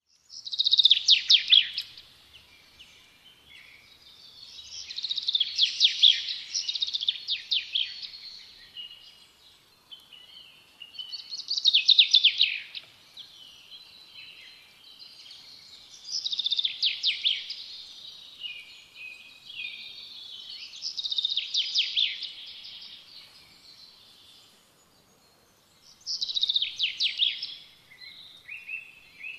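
Bird song: six high-pitched song phrases, each a fast trill lasting one to three seconds, repeating about every five seconds.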